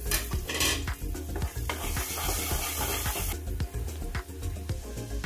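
Chopped onions and green beans sizzling in hot oil in a metal kadhai while a spatula stirs them, scraping and tapping against the pan. The sizzling hiss grows louder for about a second, two seconds in.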